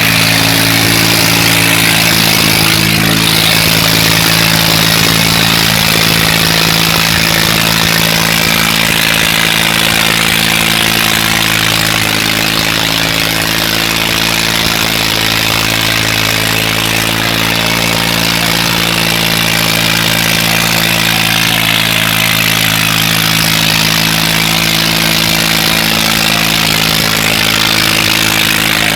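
Tractor engine running at a steady, even pitch without letting up.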